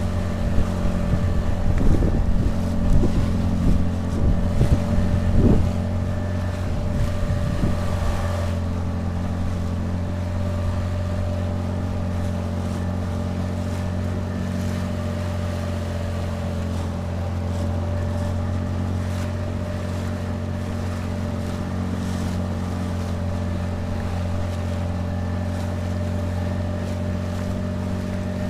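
Tohatsu 9.8 hp outboard motor running at a steady speed, pushing an inflatable motorboat along. Wind buffets the microphone for the first several seconds, then the engine runs on alone, even and unchanging.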